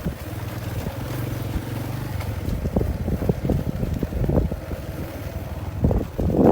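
A vehicle engine running with a steady low hum, with wind buffeting the microphone.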